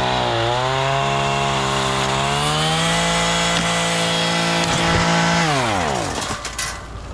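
Chainsaw running at high revs, its pitch wavering early and then holding steady. About five and a half seconds in, the throttle is let off and the engine note falls away.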